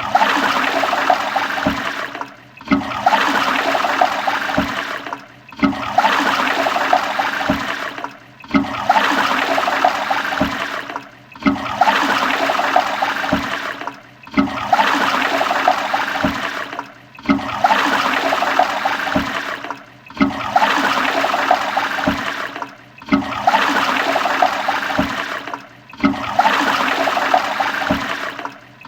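Toilet flush, a rush of water that repeats about every three seconds with a short drop in level between each, the same flush looping about ten times.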